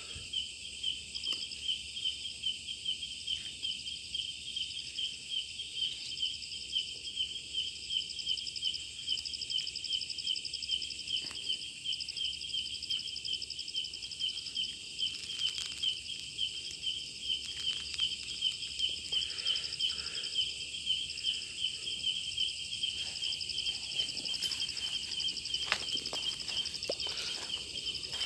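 Night insect chorus: a steady, fast-pulsing high trill with a higher continuous buzz above it, and a few faint knocks here and there.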